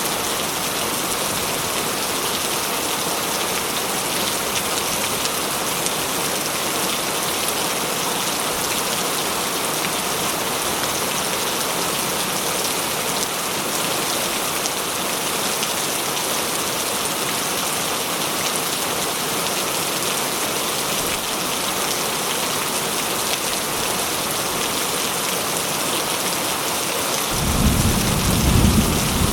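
Steady heavy rain falling, an even hiss of drops. Near the end a low rumble of thunder rises under it.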